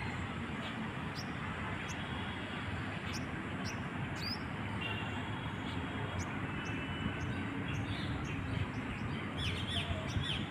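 Small birds chirping with short, high calls scattered throughout, a few brief whistled notes around the middle and a pair of sweeping calls near the end, over a steady background noise.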